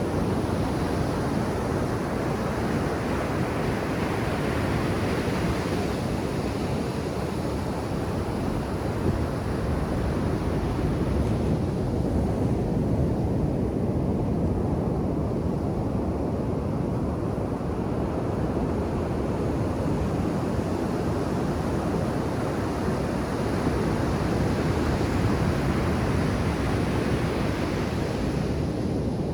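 Ocean surf breaking and washing up a sandy beach: a steady rush of water noise. The hiss of foam is brighter in the first dozen seconds, then eases to a lower wash.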